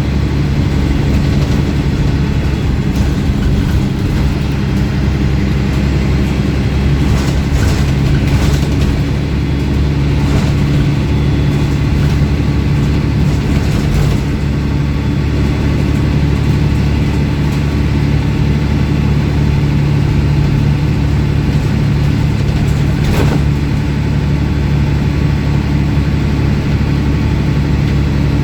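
The diesel engine of a MAN 18.220 Transbus ALX300 single-deck bus running steadily under way, with a strong low drone and its exhaust louder than usual. A few sharp rattles or knocks stand out above it.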